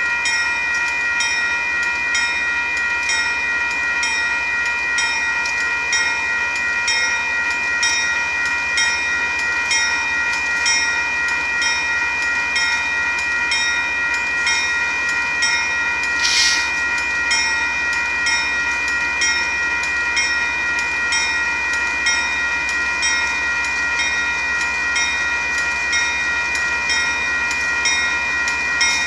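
Union Pacific gravel train's freight cars rolling past, with steady high-pitched tones and an even clicking about twice a second. A short hiss comes about halfway through.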